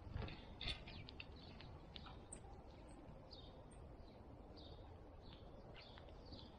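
Faint small-bird chirps from backyard feeder birds: many short, high calls scattered irregularly, some dropping quickly in pitch, mixed with small clicks.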